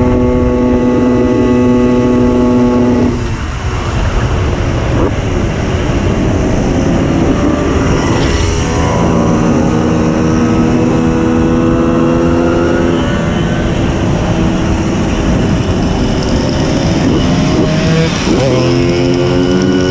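Tuned 90cc reed-valve two-stroke engine of a Simson S51 moped running hard. Its pitch holds steady, drops off about three seconds in, then climbs again through the gears, with another rise near the end.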